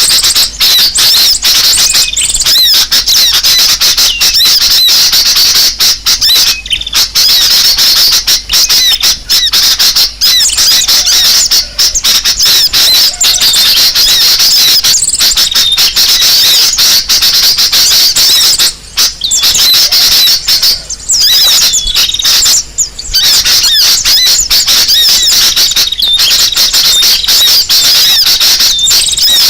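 A loud, dense chorus of small birds chirping and squawking rapidly without pause: a bird-lure recording of noisy, agitated birds, played to draw other birds in.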